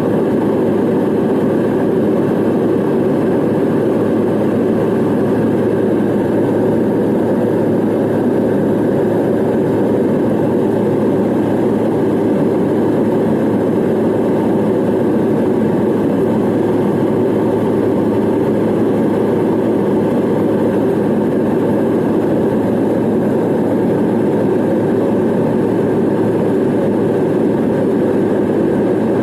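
Steady jet airliner noise heard from inside the passenger cabin: the engines and rushing air make one even, unchanging roar.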